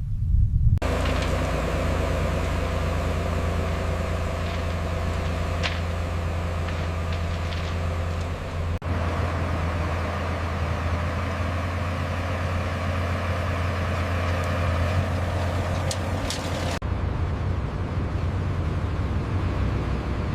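Diesel engine of heavy construction machinery running steadily. The sound changes abruptly about a second in, again near the middle, and again near the end.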